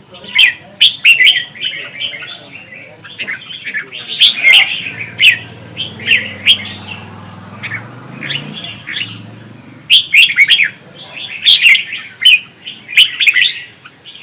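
Red-whiskered bulbuls singing in competition: loud bursts of quick, warbled whistling phrases, one after another, with a lull of a few seconds in the middle before the singing picks up again.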